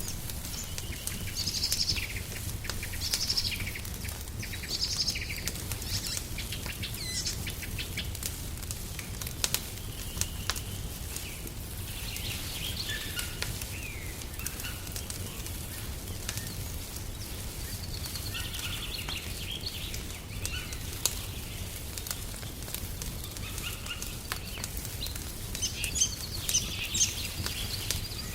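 Birds chirping and singing in short repeated phrases, busiest near the start and again near the end. Under them a wood fire crackles steadily, with scattered sharp pops.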